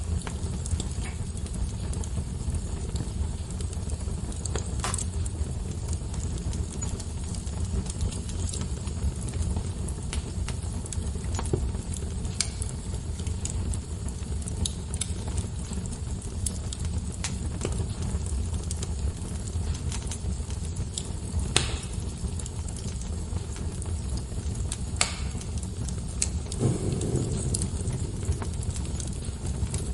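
Wood fire burning: a steady low rush of flame with scattered sharp crackles and pops from the burning logs, the strongest a little past the middle.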